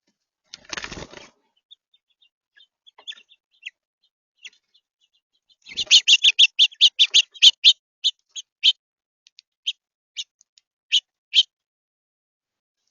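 Feeder birds: a brief flutter of wings, a few faint chirps, then a run of sharp, high calls that starts at about five a second and slows to about one every half second before stopping.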